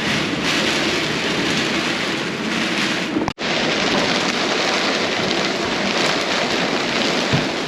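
Storm rain and wind: a steady, dense hiss of heavy rain. It cuts out for an instant about three seconds in.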